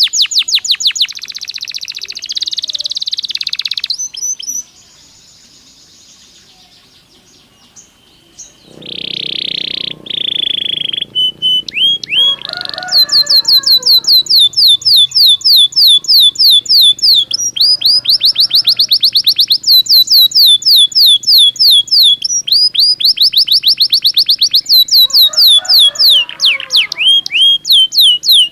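Belgian canary singing in rapid trills of high, quickly falling notes, several to the second, with a buzzier roll between phrases. About four seconds in, the song pauses for a few seconds, then resumes in long trilled runs.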